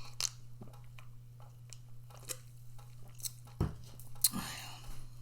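A person chewing a mouthful of orange chicken close to the microphone, with scattered small clicks, a thump about three and a half seconds in and a sharper click soon after. A steady low hum runs underneath.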